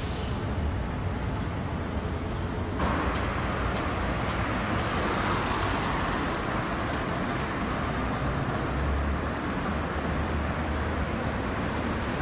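Street traffic: a steady rumble of road vehicles that turns suddenly louder and hissier about three seconds in, with a few faint clicks after.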